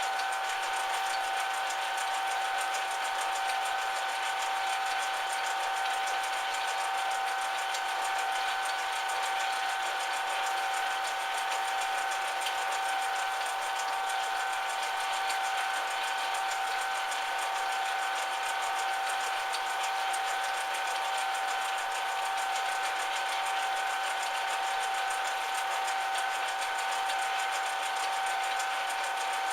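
Metal lathe running steadily, with a constant whine from its motor and gearing.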